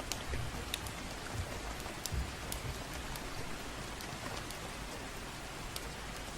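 Steady gentle rain with scattered sharp crackles, as from a fireplace burning, and a few soft low thuds.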